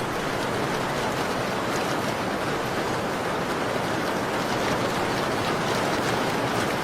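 Steady rain falling, with the faint scattered crackle of a wood fire mixed in.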